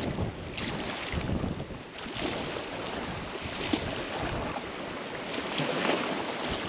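Wind blowing across the microphone: a steady rushing noise with an unsteady low rumble.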